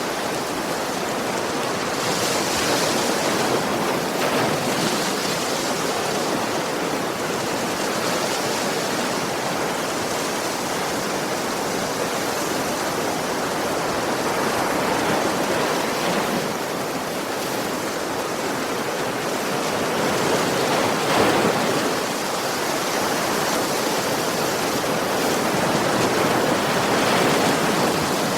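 Ocean waves breaking on a shore: a continuous rush of surf, with a few louder surges as individual waves break.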